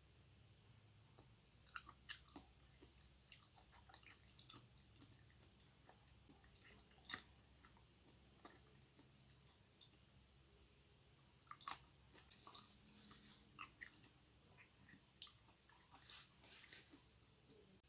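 Close-miked mouth chewing raw pork liver: quiet, scattered wet clicks and smacks, thickest in the second half.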